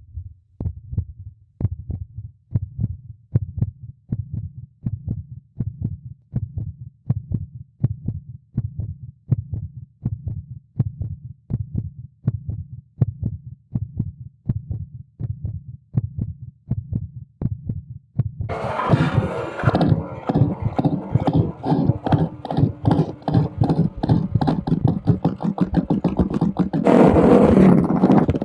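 Royal Enfield Classic 350's single-cylinder four-stroke engine idling through a barrel-type aftermarket exhaust, a steady low thump at about three beats a second. About two-thirds of the way in it becomes much louder and sharper, and it swells again briefly near the end.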